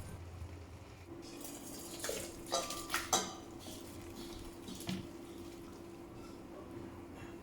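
Dishes and cutlery clinking against each other, a quick cluster of clinks in the middle and one more a little later, over a low steady hum that starts about a second in.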